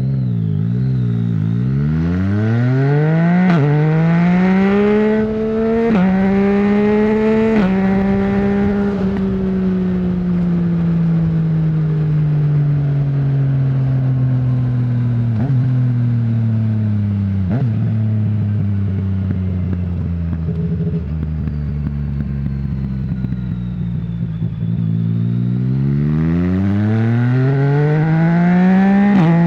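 2020 Yamaha MT-09 847 cc three-cylinder engine through an Akrapovic full-system exhaust with the dB killer removed. It accelerates hard through three quick upshifts, each a sudden drop in pitch, then rolls off the throttle for a long falling deceleration with two brief blips. It settles low, then pulls up again near the end with another upshift.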